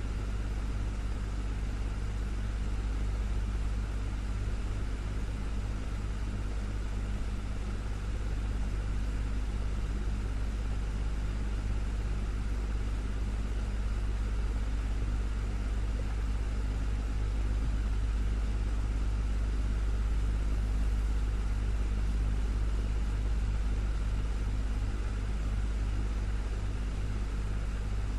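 Desktop fan running steadily: an even whoosh of air over a strong low motor hum, unchanging throughout.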